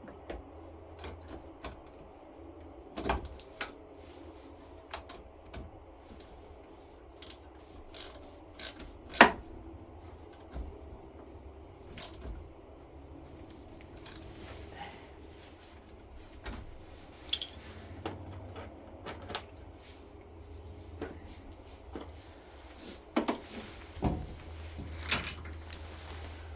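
Scattered metallic clicks and clinks of hand tools fastening the battery terminal bolts on a Craftsman lawn tractor, over a faint low hum.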